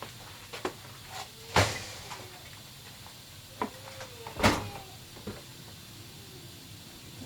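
A few sharp knocks and clicks over a quiet background; the two loudest come about a second and a half and four and a half seconds in.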